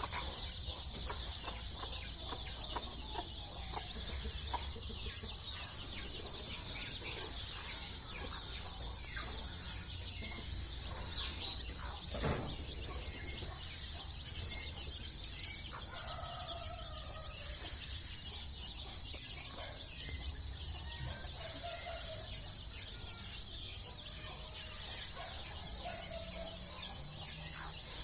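Chickens clucking now and then over a steady, high-pitched chorus of insects.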